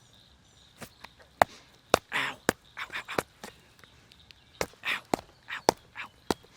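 Irregular sharp clicks and short rustling brushes close to the microphone, about a dozen in all, with no steady sound beneath them.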